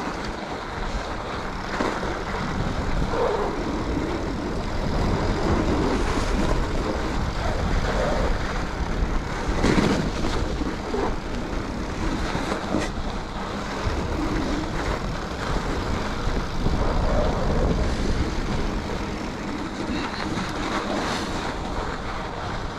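Riding noise from a mountain bike on a groomed snow trail: a steady wind rumble on the microphone, with the tyres and drivetrain running underneath.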